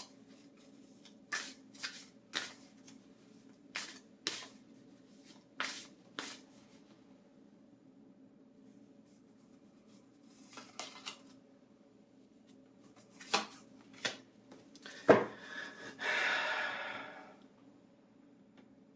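Tarot cards being handled: a series of short sharp snaps and taps as cards are handled and laid down, then a papery shuffle lasting about a second and a half near the end.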